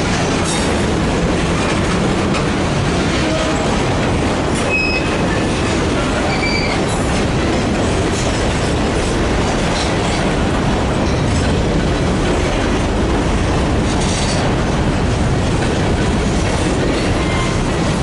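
Freight train cars rolling past on the rails: a steady loud rumble and clatter, with short high-pitched wheel squeals a few times.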